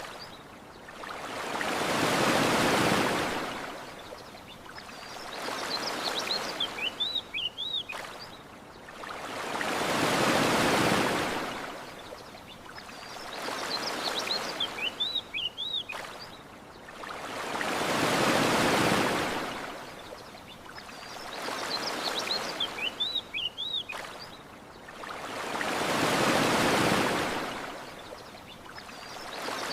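Ocean waves washing onto a shore, one swell rising and falling about every eight seconds, with short high bird chirps in the lulls between swells. The same eight-second stretch repeats, with a faint click at each seam of the loop.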